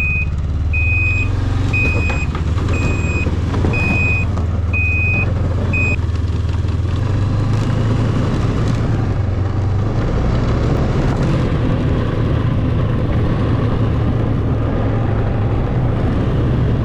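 A 600 snowmobile's engine running steadily at low revs. For the first six seconds its reverse alarm beeps about once a second, seven beeps in all, as the sled backs up.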